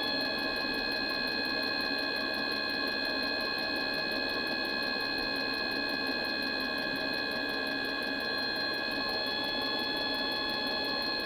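Mikuni heater running with a steady whine of several high tones, with a fast, even mechanical ticking on top.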